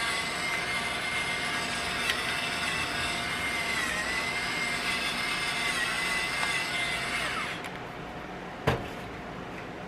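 A steady motor-like whir with hiss and a wavering high tone, which stops about seven and a half seconds in, followed by a single sharp click.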